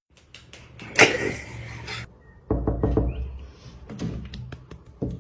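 A series of knocks and taps, with a louder noisy clatter about a second in that lasts about a second, then a quick run of taps.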